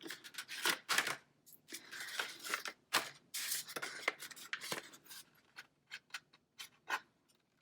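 Scissors snipping into folded paper to cut a small hole: a string of short, sharp snips with paper rustling between them.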